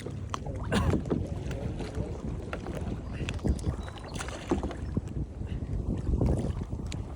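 Water splashing and sloshing around kayaks during a capsize rescue, with irregular knocks against the hulls, over a steady low rumble of wind on the microphone.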